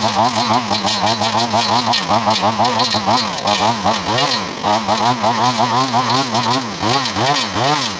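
Battery-powered Wild Badger multitool running its brush-cutter blade through brush. The motor's pitch repeatedly dips and climbs back, about twice a second, as the blade bites into growth and frees itself.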